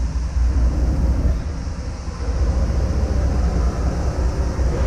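Steady low rumble of trains standing at a railway station, mixed with wind buffeting the microphone.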